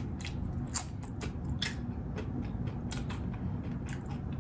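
A person chewing tortilla chips: irregular crisp crunches, several to the second at times, over a low steady room hum.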